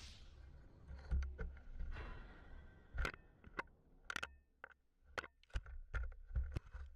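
A run of irregular sharp knocks and clunks over a low rumble, a few strong ones among many lighter ones.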